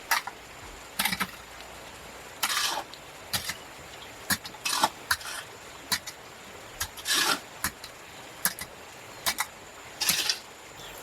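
Irregular sharp knocks and short scrapes of stones and tools being handled during cement foundation work, several clacks with three longer scrapes spread through.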